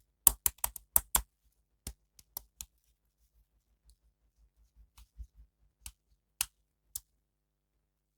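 Sharp clicks and taps from unboxing and handling an action figure and its packaging: a quick run of about six in the first second, then scattered ones, with a loud one about six seconds in.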